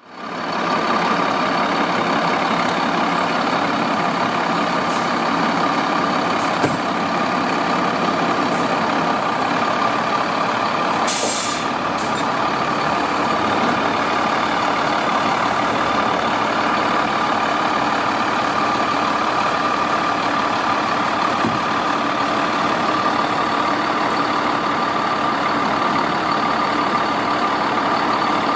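Fire engine's diesel engine running steadily at idle with a constant whine, and a short air-brake hiss about 11 seconds in.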